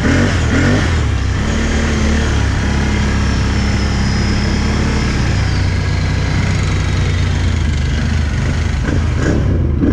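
Can-Am 1000's V-twin engine running steadily, a constant low rumble with no revving.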